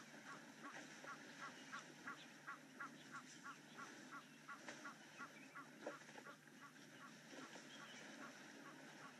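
Faint bird calling in a steady series of short repeated notes, about three a second, fading out about six seconds in, over quiet outdoor waterhole ambience.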